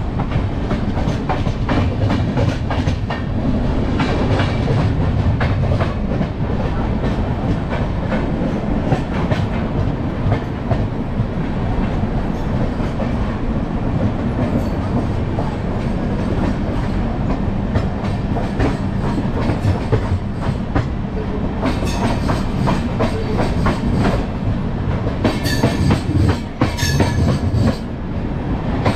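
Train running along the track: a steady low rumble with wheels clicking over rail joints. Near the end the clatter turns sharper and denser for a few seconds.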